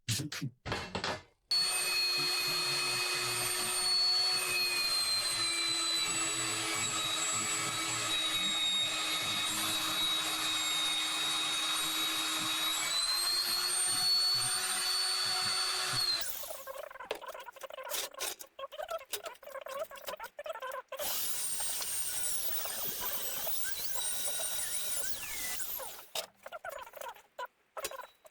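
Magnetic drill with an annular cutter (broach) running and boring a hole in a metal strip, a steady motor whine whose pitch sags through the middle of the cut and rises again before it stops about 16 seconds in. Softer, intermittent handling sounds follow.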